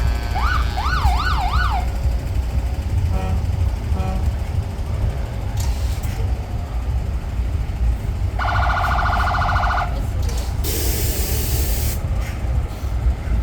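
A siren wailing in quick up-and-down sweeps, about two and a half a second, for the first couple of seconds, over a steady low rumble of passing trucks. Later a horn sounds for about a second, then a short burst of hiss.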